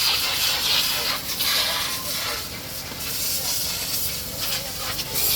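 Pressure washer spraying a jet of water: a steady hiss that swells and eases as the spray moves, with a faint steady low hum underneath.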